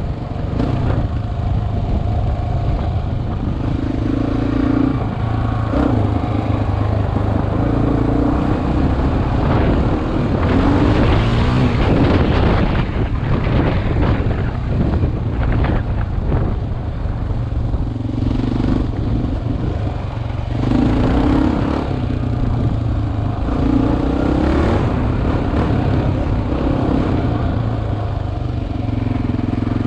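Dual-sport motorcycle engine running under way off-road, its revs rising and falling as the rider shifts and works the throttle. Rattles and clatter from the rough track come and go, loudest in the middle stretch.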